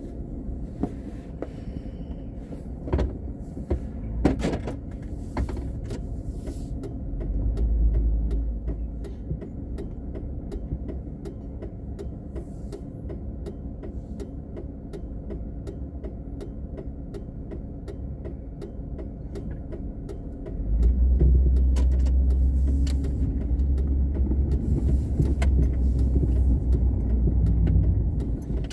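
Car driving, heard from inside the cabin: steady engine and road rumble with a regular light ticking, and the low rumble swelling briefly about a quarter of the way in and again for the last several seconds.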